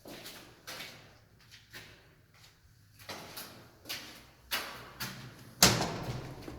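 Footsteps on a hard floor, a short knock every half second or so, with one heavier thud about five and a half seconds in.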